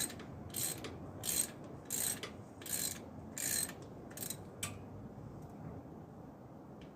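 A hand ratchet clicking through a series of short strokes, about one every 0.7 seconds, that stop about five seconds in.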